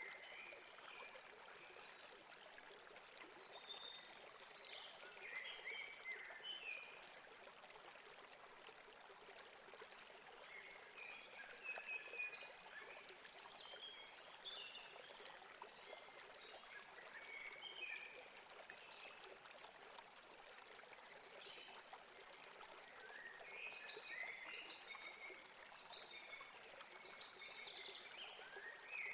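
A faint brook trickling and running steadily over rocks, with small birds chirping in short clusters of quick high notes every few seconds.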